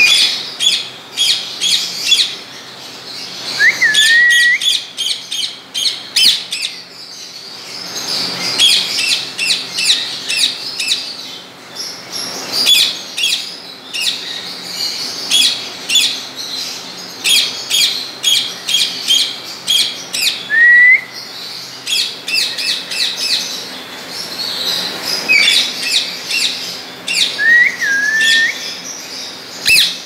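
Caged aviary birds chirping in quick runs of short, high calls, with a short rising whistle a few times.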